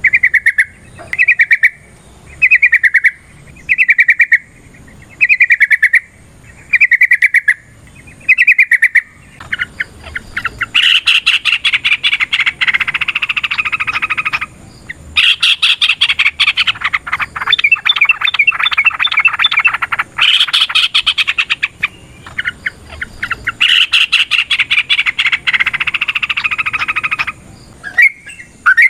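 Yellow-vented bulbul singing. It starts with short phrases repeated about once a second. About a third of the way in it breaks into long runs of rapid chattering notes, with a few short breaks, which stop shortly before the end.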